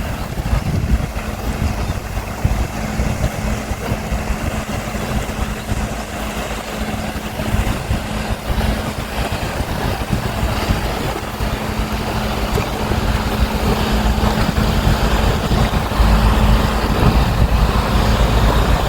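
Gusty wind rumbling on the microphone over a steady low hum, getting louder near the end.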